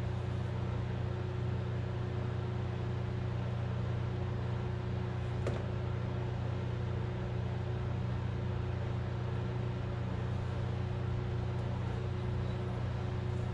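Steady low mechanical hum with no change in pitch or level, and one faint click about five and a half seconds in.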